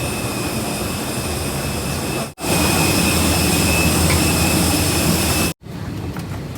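Jet airliner noise: a steady rushing hiss with a constant high whine over it. It cuts out abruptly twice, and the middle stretch is louder.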